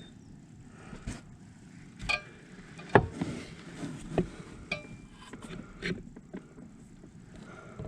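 Scattered metallic clinks and knocks, about six, the loudest about three seconds in, a couple with a brief ringing tone, as the snowmobile's magneto flywheel is handled and worked onto the crankshaft.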